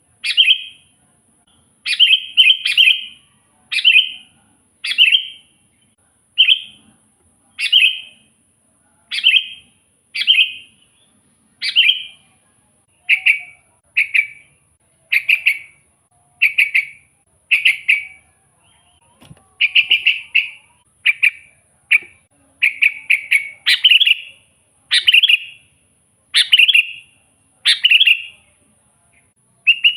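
Sooty-headed bulbul (kutilang) in full song: a continuous run of short chirping phrases, roughly one a second, with a faint steady high-pitched tone behind them.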